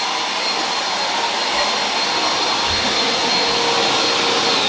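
Household vacuum cleaner running with a steady hiss and a high whine, its motor starting to wind down as it is switched off right at the end.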